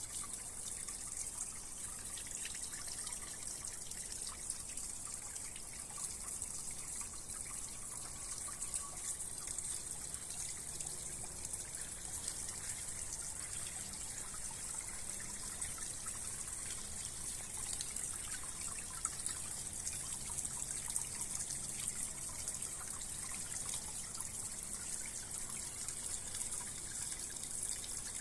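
Small decorative garden waterfall: water falling and trickling steadily over stones into a pond.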